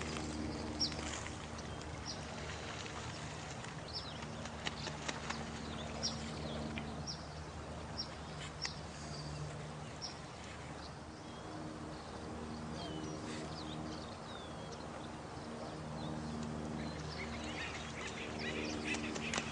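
Night nature soundscape of steadily running water, with short high chirps about once a second and a low humming chorus that fades out midway and comes back.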